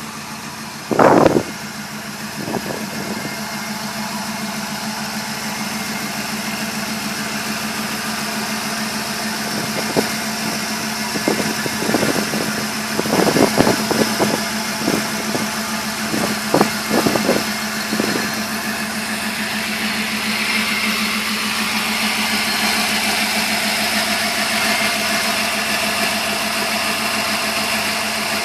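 Turbocharged 5.8 L V8 of a 1993 Ford F-150 Lightning idling steadily, with a few short knocks or handling noises over it in the middle.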